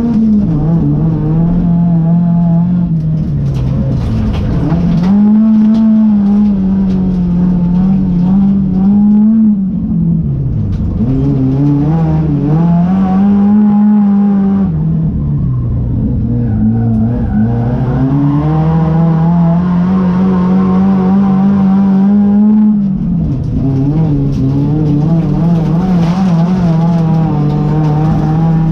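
Folkrace car engine being driven hard around a track, revving up, holding, then dropping sharply every few seconds as it lifts or shifts for corners and pulls away again.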